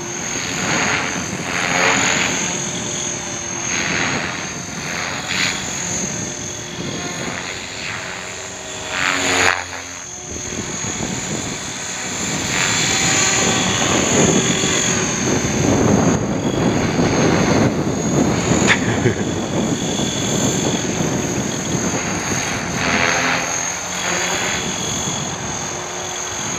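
Hobbyking 450-size radio-controlled helicopter flying, its rotor noise swelling and fading as it manoeuvres and passes, over a steady high whine.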